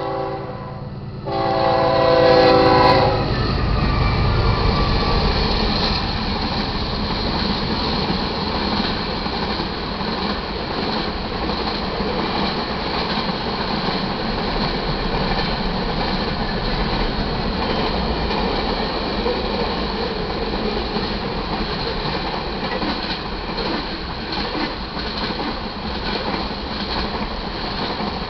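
Freight locomotive horn sounding a short blast and then a longer one that cuts off about three seconds in, as the lead GE diesel locomotives pass close. Then the steady rumble and clickety-clack of a mixed freight train's cars rolling by on the rails.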